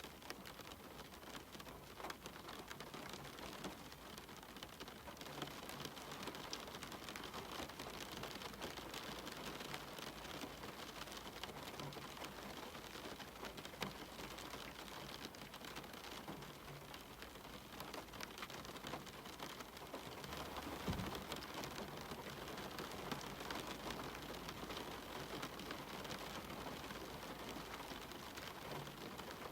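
Steady rain falling, with many small drops ticking through it. A single low thump about two-thirds of the way through.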